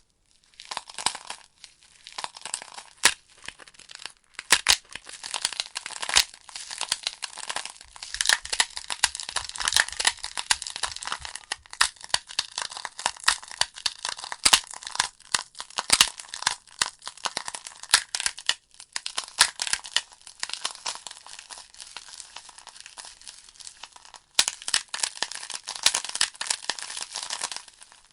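Wood fire crackling: burning logs popping and snapping irregularly over a steady hissing of flames, with several sharp louder cracks.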